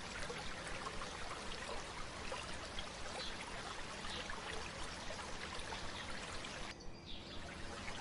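Shallow stream babbling steadily, with a brief drop in its hiss about seven seconds in.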